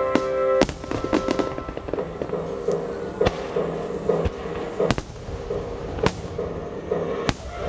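Aerial firework shells bursting: about six sharp booms spread a second or so apart, with a spell of dense crackling about a second in, over music playing underneath.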